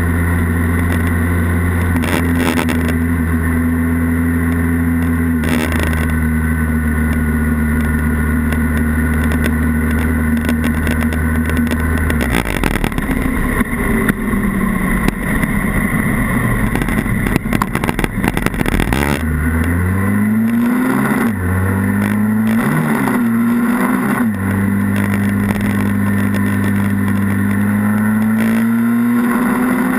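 Honda Rebel 250's parallel-twin engine running at a steady cruise. About twelve seconds in the engine note falls away as the bike slows, and from about twenty seconds it climbs in three rising steps as the rider accelerates up through the gears, then settles into a steady cruise again.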